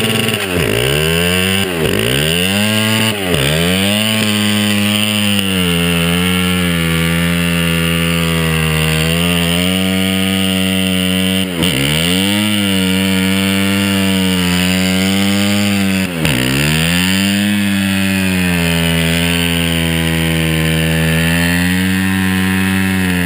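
Honda CRF250R single-cylinder four-stroke engine held at high revs to spin the rear tyre in a burnout. The revs drop and climb straight back up several times, then hold steady.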